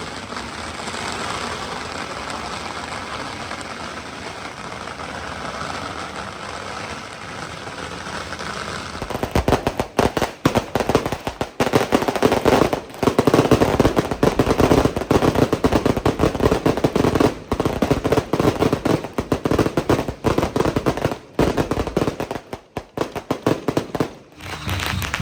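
Steady background noise, then about a third of the way in a long string of firecrackers goes off: a dense, rapid run of sharp cracks that carries on until just before the end.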